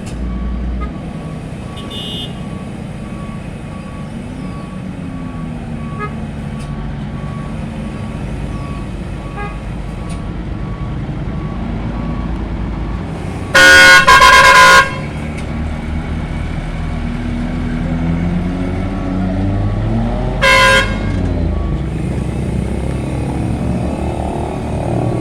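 Heavy truck engines running steadily, with a loud vehicle horn blast in two quick parts about halfway through and a shorter toot some six seconds later. A faint, evenly repeated beeping sounds through the first half.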